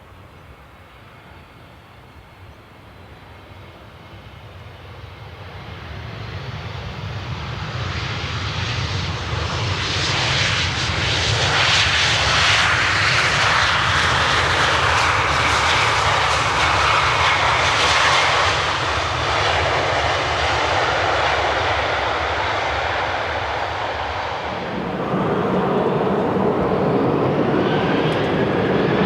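Jet airliner's engines growing steadily louder as it approaches, then holding loud for about fifteen seconds as it passes close by. About 25 seconds in, a different engine sound cuts in, with a rising whine near the end.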